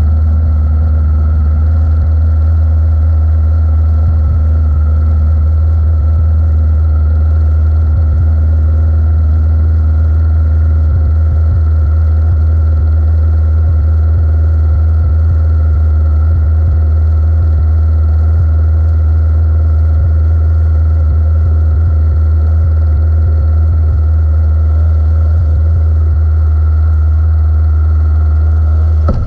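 600-class race motorcycle engine running steadily at an unchanging low speed, like an idle, loud on the onboard microphone.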